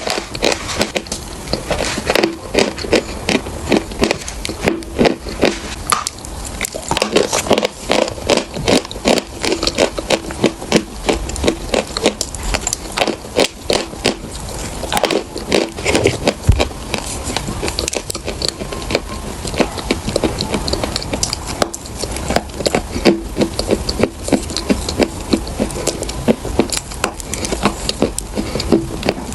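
Close-miked chewing and crunching of chalk: a dense, irregular run of sharp crunches, several a second.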